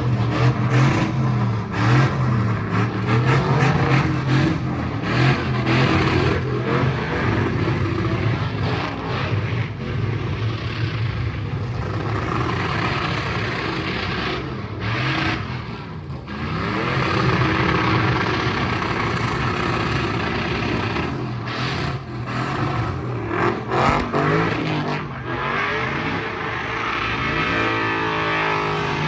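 Car engines revving hard, the pitch climbing and falling back again and again as cars spin at a sideshow.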